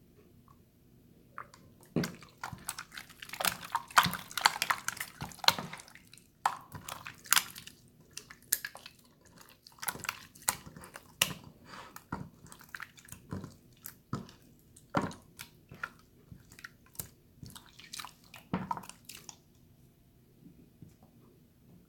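Water slime being squished and stretched by hand: a run of sticky, wet clicks and crackles, thickest a few seconds in, stopping a couple of seconds before the end.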